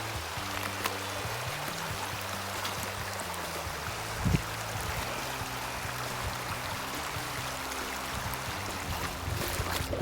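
Steady rush of flowing river water, with soft low background music notes under it and a brief low thump about four seconds in.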